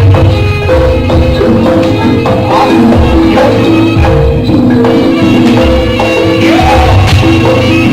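Live jaranan gamelan music: a run of tuned metallophone notes over steady low drum beats, with a few gliding melodic tones above.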